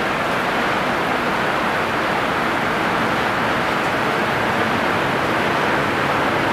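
Floodwater rushing along a street in a steady, loud, even wash.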